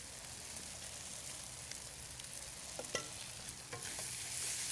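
Noodles, egg and sauce sizzling in a hot pan as they are stirred, with a few short clicks of the utensil about three seconds in. The sizzle gets a little louder near the end.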